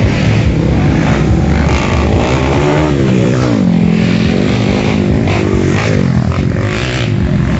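Dirt bike engines running and revving, the pitch climbing and falling back about three seconds in.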